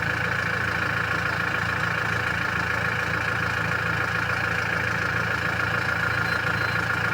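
Toyota Innova engine idling steadily.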